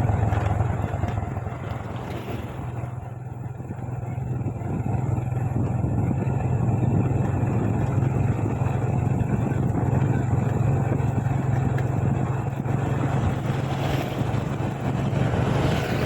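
Motorbike engine running steadily while riding, with a constant low hum and road noise.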